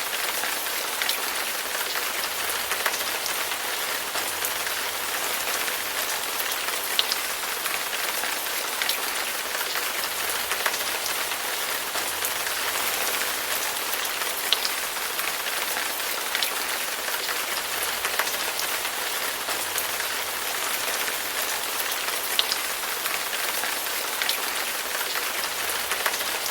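Heavy rain falling steadily, a dense even hiss with scattered sharper drop hits standing out now and then.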